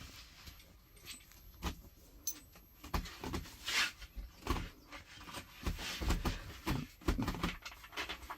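Irregular clicks, knocks and short rustles of hand work with metal hardware, such as bolts and washers being handled and fitted.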